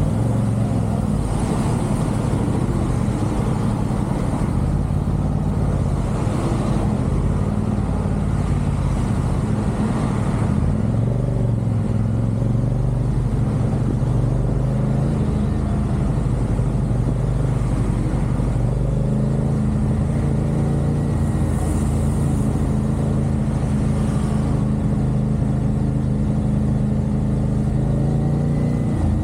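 CFMoto 450SR sport bike's parallel-twin engine running at steady expressway cruising speed over road and wind noise. Its note shifts pitch a couple of times and falls away near the end as the bike slows.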